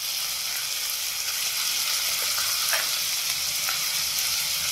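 Onion, tomato and spice masala sizzling steadily in hot oil in a nonstick pan, with a few light scrapes of a spoon stirring it.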